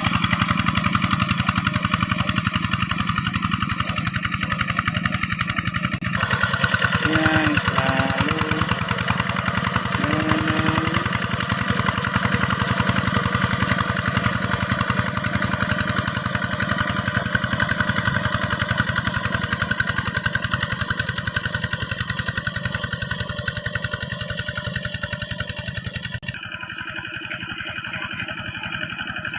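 Two-wheel hand tractor's diesel engine running steadily under load. Its sound changes abruptly about six seconds in and again near the end.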